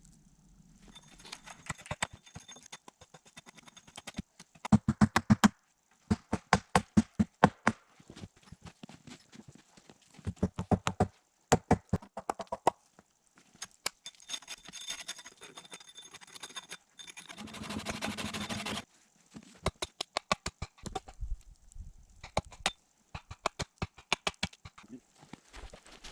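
Bursts of rapid knocking and tapping from hand work on the wooden structure, several quick strokes a second in each burst, with a rasping stretch of about two seconds partway through.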